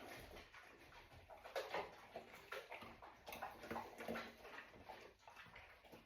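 Dogs eating wet, softened food from their bowls: faint, irregular chewing, licking and smacking with small clicks.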